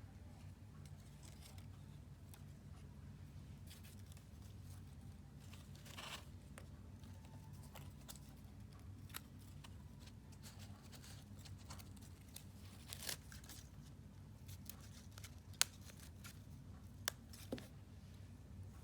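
Paper-crafting handling sounds: scattered small clicks, snips and rustles of paper and tools over a steady low hum, with a few sharper clicks near the end.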